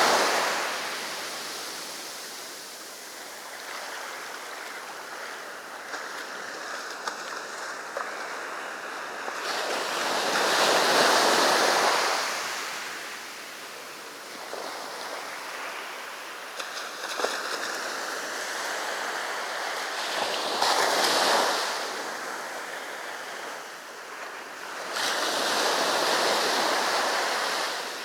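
Sea waves breaking and washing up the beach: a steady surf hiss that swells into loud surges three times, about ten, twenty and twenty-five seconds in.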